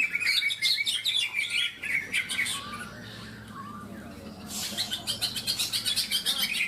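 Several caged green leafbirds (cucak ijo) singing at once, a dense chatter of rapid chirps and warbling phrases. The song thins out for a couple of seconds midway, then picks up again.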